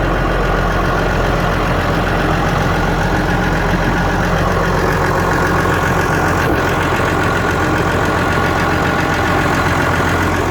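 Tractor engine running steadily at an even speed, a low drone that holds the same pitch throughout.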